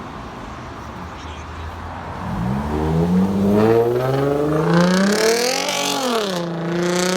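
A car engine accelerating hard, its revs climbing from about two seconds in, dropping briefly at a gear change near the end, then pulling again.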